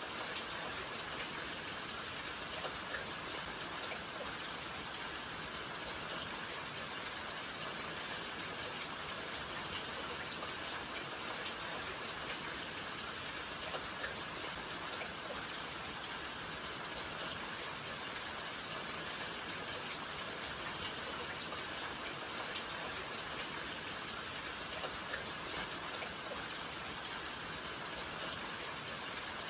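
Steady rain falling, with many individual drops pattering on a surface over a constant wash of rainfall.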